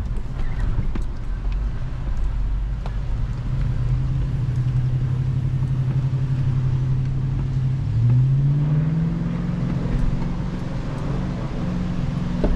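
Toyota 4Runner engine pulling at low revs in four-low while crawling up a steep rocky trail. About eight seconds in, the throttle comes up and the engine note rises in pitch and holds, then eases off. Scattered sharp knocks and clicks sound throughout.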